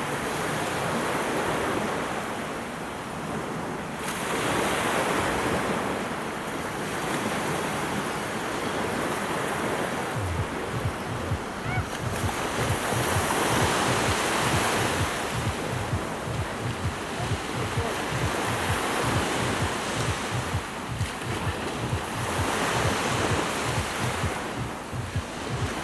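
Mediterranean surf washing ashore in swells that rise and fall every few seconds, with wind buffeting the microphone as a low rapid flutter from about ten seconds in.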